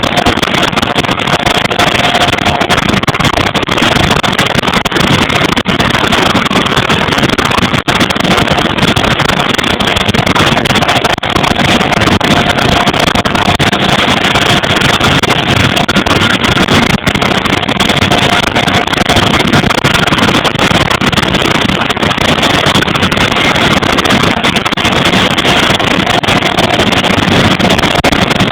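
Vickers Vanguard's Rolls-Royce Tyne turboprop engines running on the ground during an engine run: a loud, steady noise of propellers and turbines with a faint steady whine.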